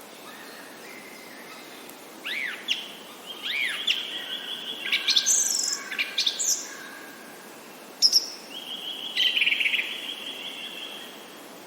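Songbirds singing and calling over a steady background hiss. There are two arching whistled notes about two seconds in, then trills and short high notes in the middle, and a longer trill near the end.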